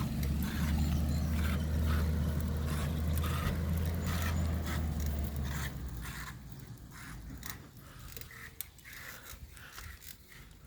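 Garbage truck engine running with a steady low rumble that fades after about six seconds, with scattered clicks and rattles throughout.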